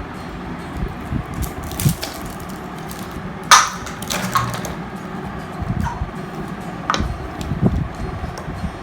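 Toys and their packaging being handled: scattered knocks and clicks, the loudest about three and a half seconds in.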